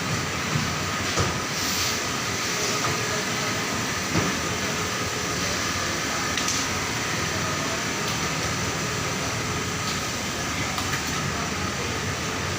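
Template sewing machine running steadily, a continuous mechanical whir with a few short clicks.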